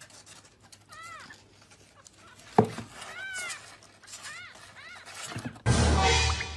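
A domestic cat meowing several short times, each call rising then falling in pitch, with a sharp click about halfway through. A loud rushing noise takes over near the end.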